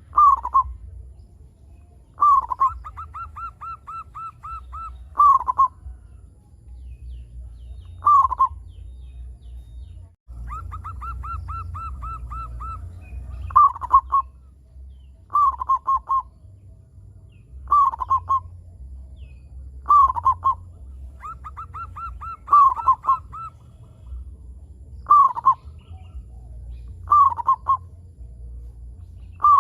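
Zebra dove (perkutut) cooing: a phrase about every two seconds, many opening with a quick run of short clipped notes and each ending in a louder, lower coo. A steady low rumble runs underneath.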